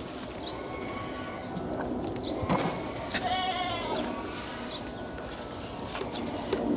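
A single wavering, bleat-like animal call lasting about a second, about three seconds in, just after a sharp knock.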